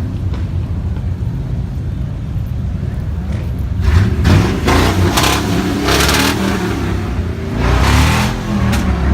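Car engine revving over a steady low rumble, with two louder rising revs, one about four seconds in and a shorter one near the end.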